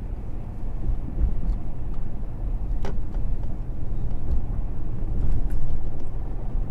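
Car driving on the road, heard from inside the cabin: a steady low rumble of engine and tyres, with a few faint clicks.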